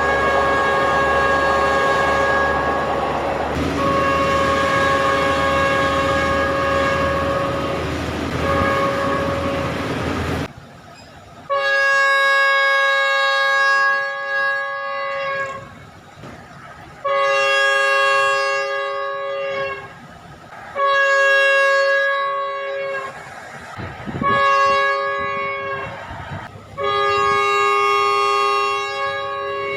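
A Thai train's multi-tone air horn sounds one long chord for about ten seconds over the rumble of the running train, dipping briefly twice. After a sudden change it gives a series of separate blasts of about two seconds each, with near-quiet gaps between them.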